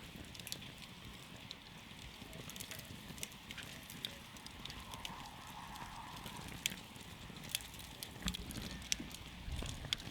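Campfire burning and crackling: irregular sharp pops and snaps of burning wood, a few louder than the rest, over a steady low rumble.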